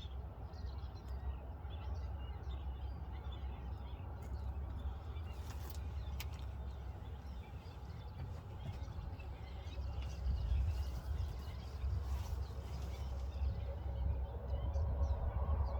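Outdoor ambience of a constant low rumble, like wind on the microphone, with scattered short bird chirps over it.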